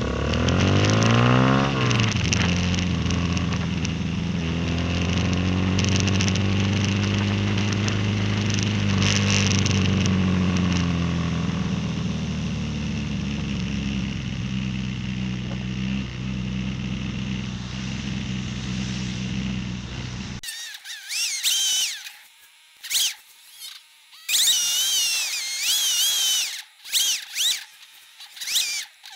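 Honda Grom MSX125's 125 cc single-cylinder four-stroke engine running under way, rising in pitch as it accelerates over the first couple of seconds, then running fairly steadily. About 20 seconds in, the engine sound cuts off abruptly and gives way to intermittent high, warbling, whistle-like tones.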